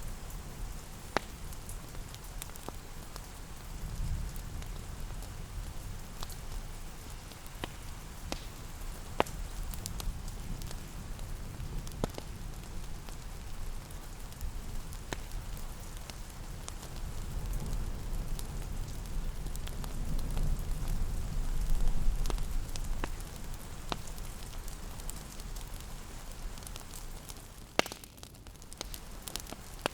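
Fireplace crackling with scattered sharp pops over a steady hiss of rain, with a low rumble that swells about two-thirds of the way through.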